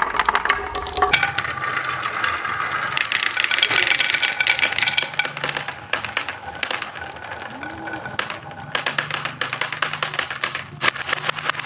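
Many marbles rolling and clattering down a marble run, a dense stream of rapid clicks and rattles as they knock against the track and each other.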